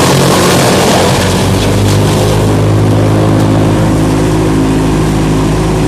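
Diesel engine of a ЕГЕРЬ 750 branch chipper running steadily and loud, with a rushing noise over it that eases about a second in.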